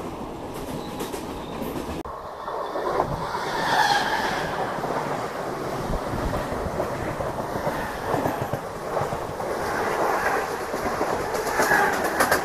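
Passing train coaches, then from about two seconds in a Mumbai suburban local electric train (EMU) running close by, its wheels clattering over the rail joints. Brief high squeals from the wheels come and go.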